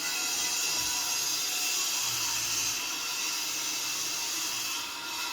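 A power tool running steadily with a high-pitched hiss, cutting off near the end.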